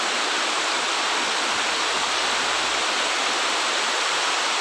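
Heavy tropical downpour: dense rain falling steadily as an even, unbroken hiss.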